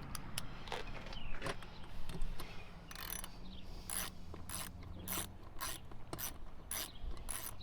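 Socket ratchet wrench clicking as a bolt on a chainsaw's muffler is worked loose. The clicks are scattered at first, then come steadily about twice a second from a few seconds in.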